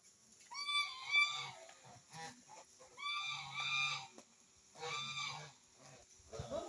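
Birds calling: three loud honking calls, each under a second long, about half a second, three seconds and five seconds in.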